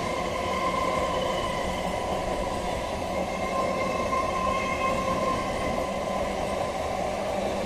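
MEMU electric train running past, a steady rumble of wheels on rail with a steady high whine over it.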